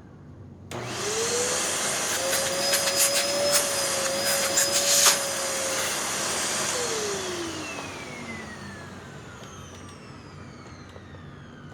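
Hoover NanoLite upright vacuum switched on, its motor spinning up to a steady high whine with its brush roll not turning. Sharp crackles and clicks sound over it for a few seconds, then it is switched off and the whine falls away as the motor spins down.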